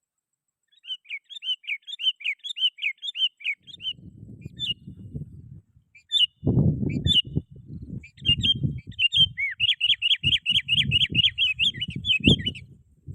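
Sooty-headed bulbul singing in quick runs of rapid chirping notes, with a few scattered notes between the runs. Loud low thumps and rumbles sound underneath through most of it.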